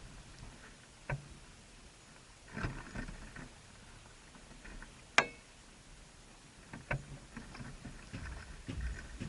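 Birds shuffling about in a nest, with scattered taps and scrapes, one sharp click about five seconds in, and busier rustling near the end.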